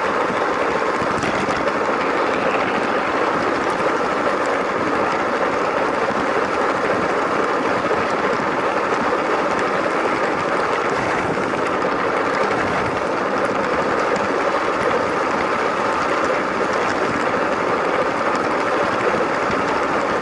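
LEGO train running steadily along plastic track: the whir of its small electric motor and gears mixed with wheel rumble, an even noise that stays level throughout.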